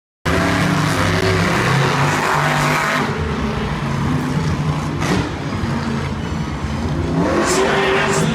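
Monster truck engines running loud and revving, with the pitch rising near the end.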